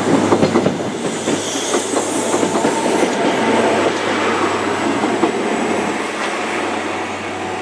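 InterCity 125 High Speed Train, with Class 43 power cars and Mark 3 coaches, running through the station. Wheels click over the rail joints in the first second, then a steady rumble of the passing train slowly fades.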